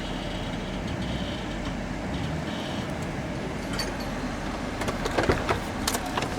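A vehicle engine running steadily under load, with several sharp knocks and clanks about five seconds in.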